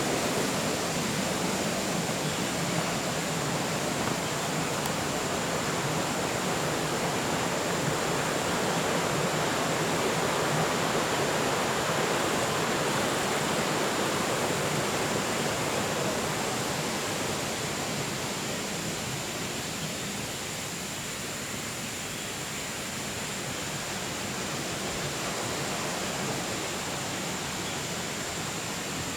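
Shallow river water rushing steadily through the Water Forest's trees and stones, easing somewhat about two-thirds of the way through.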